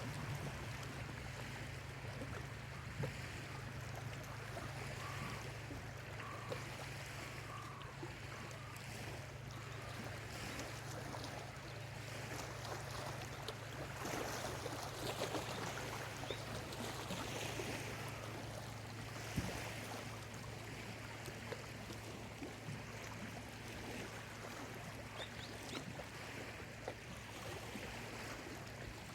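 Small lake waves lapping on the shore, an even wash of water with a steady low hum beneath it. A few faint short bird calls come through about five to eight seconds in.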